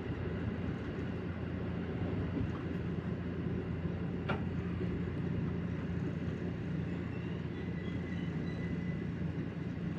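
Electric multiple-unit train (JR 313 series) running on the line, heard from inside: a steady rumble of wheels on rail with a low, even motor hum. There is a single sharp click about four seconds in, and a faint high whine near the end.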